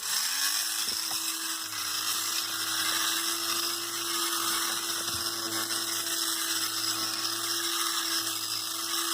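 Electric fabric shaver (bobble remover) with its small motor spinning up as it is switched on, then running at a steady whir with a high hiss from its rotating blade.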